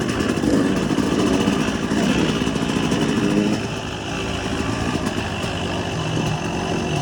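Motocross bike engine running, louder for the first few seconds, then easing off to a quieter, steadier note about halfway through.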